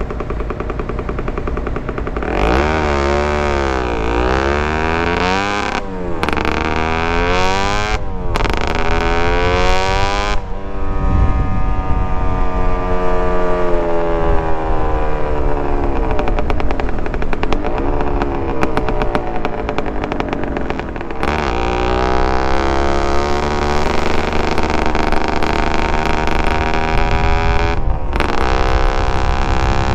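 Suzuki TSR 125 single-cylinder two-stroke engine with a DEP aftermarket exhaust, ridden hard: its pitch climbs and falls again and again, with short sharp breaks in the sound as the throttle is shut for gear changes.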